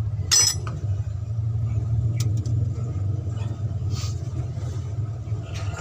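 Steady low engine-like rumble, with one sharp click about half a second in and a few lighter ticks later.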